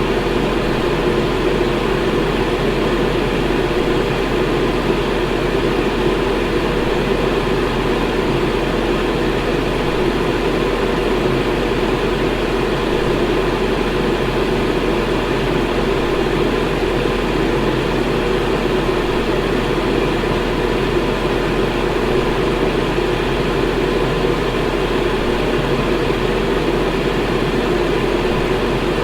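Electric fan running steadily: a constant rush of air with a low hum underneath.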